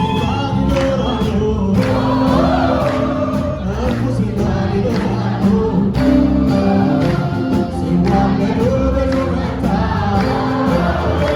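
Ethiopian gospel song (mezmur) with a choir singing over a steady instrumental backing.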